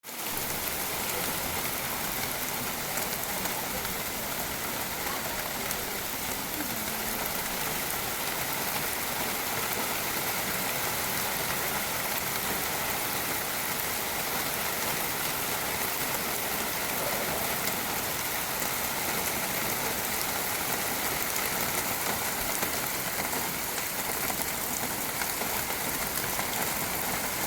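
Steady rain falling, an even hiss of many drops hitting surfaces.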